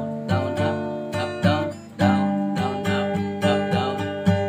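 Acoustic guitar capoed at the fifth fret, strumming the song's intro in a down-down-up-up-down pattern, with the chord changing about two seconds in.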